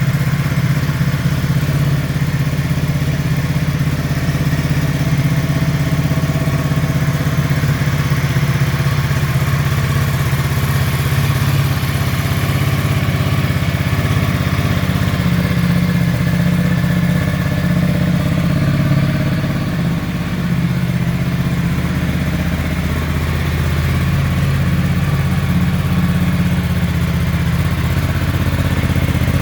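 Ducati Multistrada 1260S's Testastretta V-twin engine idling steadily.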